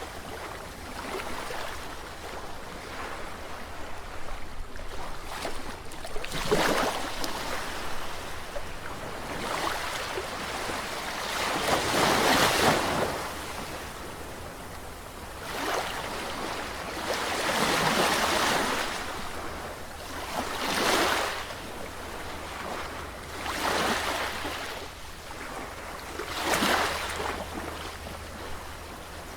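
Sea waves surging and washing in, with a fresh swell every three to four seconds over a steady low rumble.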